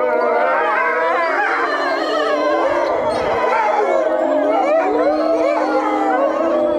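A pack of European wolves howling together in chorus, many overlapping voices gliding up and down in pitch, some long and steady, others short and wavering.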